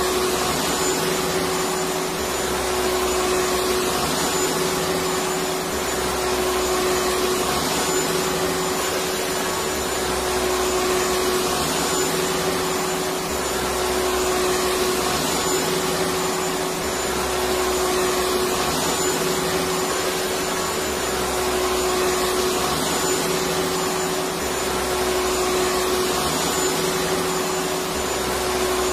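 Electric vacuum cleaner running steadily: a constant rushing of air with a steady motor hum and a faint high whine, swelling slightly in the low end every two to three seconds.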